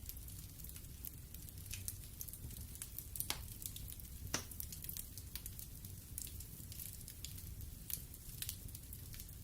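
Wood fire burning in a fireplace: a low steady rumble of the flames with scattered crackles and pops of burning logs, two sharper cracks a few seconds in.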